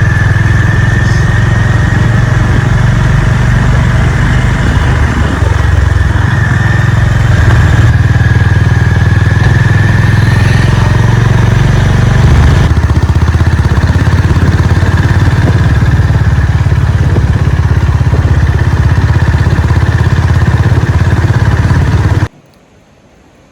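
Honda CB350 RS single-cylinder motorcycle engine running steadily, loud and deep. It cuts off abruptly near the end, leaving only a faint hiss.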